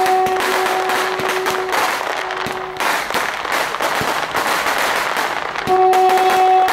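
Fireworks crackling, with many rapid small pops and bangs. Music plays underneath, its held notes dropping out a little under two seconds in and coming back near the end.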